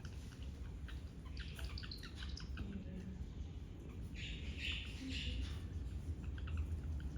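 Small birds chirping, with quick high chirps scattered throughout and a busier burst of chatter about four to five seconds in, over a steady low rumble.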